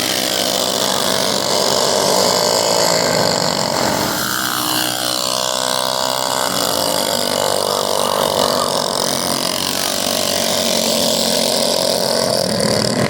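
Small minibike engines running hard, their pitch sliding up and down as they rev and ease off.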